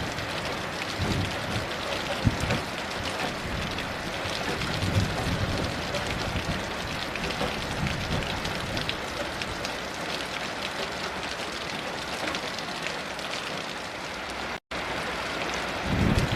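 Steady heavy rain falling, with a few soft low rumbles of distant thunder. The sound drops out completely for an instant near the end.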